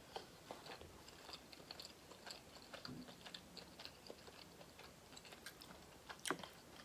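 Faint close-up chewing of boiled seafood: scattered small mouth clicks throughout, with one louder click about six seconds in.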